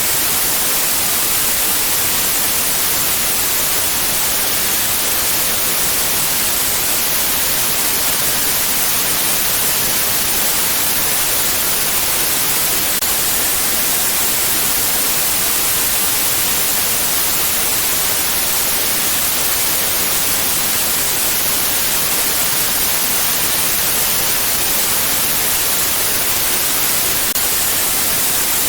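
Steady white noise: a constant, even hiss that is loudest in the high frequencies and does not change.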